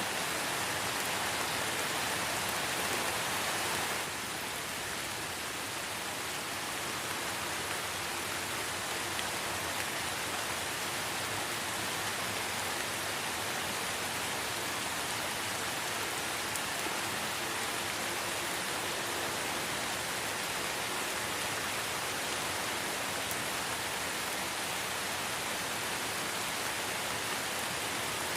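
Steady light rain falling in a forest, an even hiss of many drops. The sound dips slightly in level about four seconds in and then holds steady.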